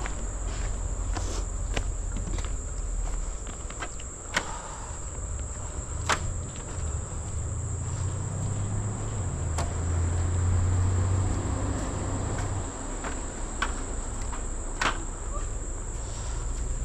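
Steady, high-pitched drone of insects in rainforest, with scattered sharp clicks and taps. A low rumble swells under it in the middle.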